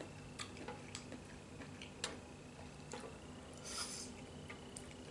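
Faint close-up eating sounds: scattered soft mouth clicks while chewing, with a short hiss about four seconds in.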